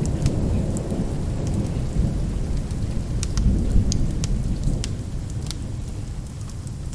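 Low rolling thunder under steady rain, the rumble easing off over the last couple of seconds, with sharp pops from a crackling wood fire scattered throughout.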